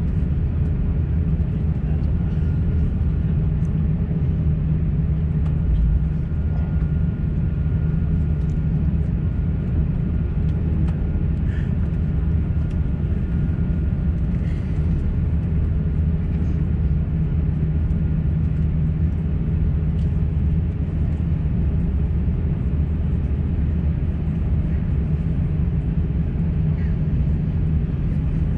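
Steady low hum of an Airbus A350-900's cabin on the ground after landing, the jet engines at idle, with a few faint clicks.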